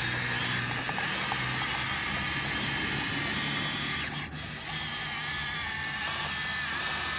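Small electric motor and gearing of a Huina 1573 RC dump truck whining steadily, its pitch wavering, with a brief drop about four seconds in.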